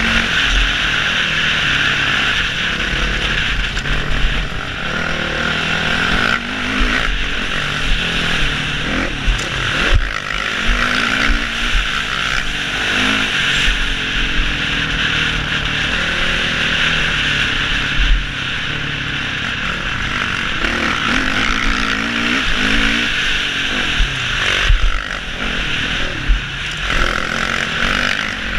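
Four-stroke motocross bike engine heard from the rider's helmet, revving up and dropping back again and again through the gears and corners. A steady rush of wind noise sits over it, with frequent dull thuds as the bike lands and hits bumps.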